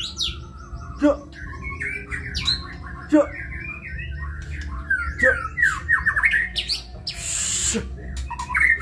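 White-rumped shama (murai batu) singing a dense, varied run of quick phrases, with a rapid rattling series in the middle. A harsh hissing burst comes near the end.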